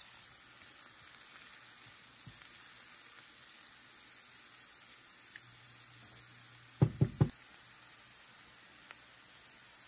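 Diced boiled turnips and onions sizzling steadily in hot bacon drippings in a frying pan while being stirred, sauteed until the onions turn golden. About seven seconds in come three quick sharp knocks.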